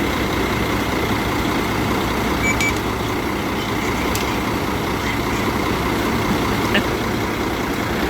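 Concrete mixer truck's diesel engine running steadily close by, with a short high beep about two and a half seconds in.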